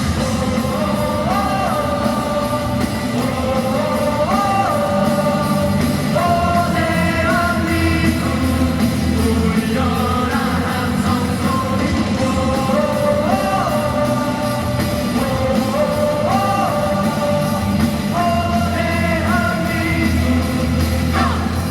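A rock band playing live: a singer carries a melody over drums and a full band backing, with no pause.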